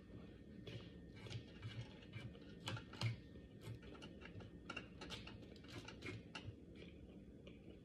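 Close-miked eating: chewing, with a run of small irregular wet clicks and soft low thumps that thin out near the end.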